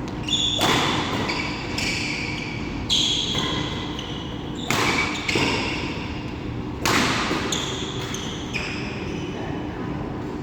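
Badminton rally: a racket strikes the shuttlecock about five times, sharp hits roughly 1.5 to 2 seconds apart, with short shoe squeaks on the court floor between them.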